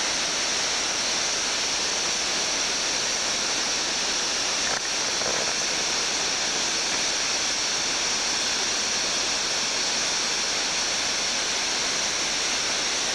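Steady rushing of a waterfall, with a faint click about five seconds in.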